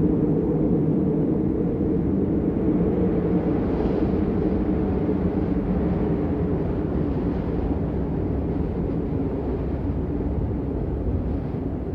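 Steady rain, a dense low rushing noise with little hiss in it.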